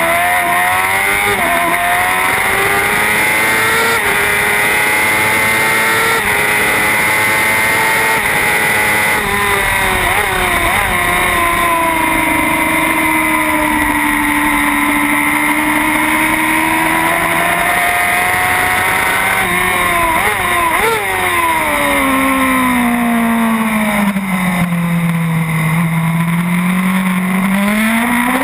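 Racing motorcycle engine heard from on the bike at race pace, revving hard and climbing in pitch as it accelerates. Twice the revs drop away with quick throttle blips as it downshifts into a corner, then climb again, over a steady rush of wind.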